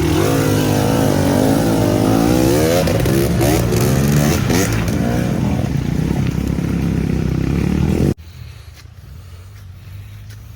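Trail motorcycle engine revving up and down as it is ridden, its pitch rising and falling. About eight seconds in, the sound drops suddenly to a much quieter, steady low engine hum.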